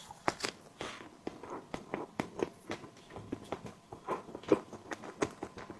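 Close-miked chewing of a tiger skin dessert: irregular wet mouth clicks and smacks, several a second.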